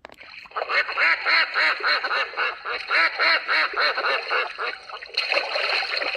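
Ducks quacking in a quick, steady run of short quacks, several a second, after a single click at the start.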